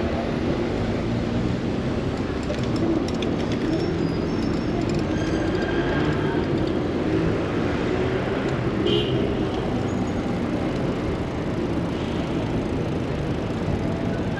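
Steady road traffic noise: engines and tyres of passing vehicles on a busy city street.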